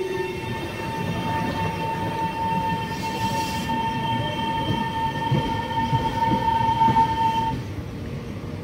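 Taiwan Railways electric commuter train running past a station platform: a steady rumble of wheels on rails with irregular knocks, and over it a steady high-pitched squeal that holds one pitch and stops near the end.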